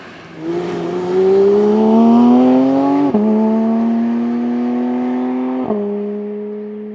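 2022 Porsche 911 GT3 Touring's 4.0-litre naturally aspirated flat-six accelerating hard, its note rising in pitch, then two quick upshifts about three and five and a half seconds in, each a brief sharp break before the engine carries on at a steadier pitch.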